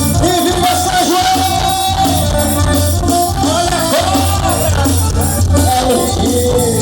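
Live forró band playing a São João medley: a wavering, sliding lead melody over steady bass and drum beats.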